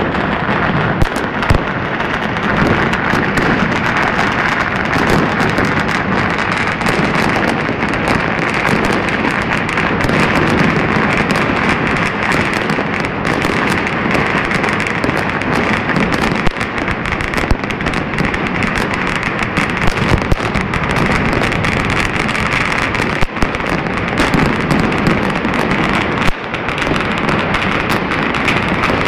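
Many fireworks going off at once across a city, a continuous dense crackle of bangs, with a louder bang standing out now and then.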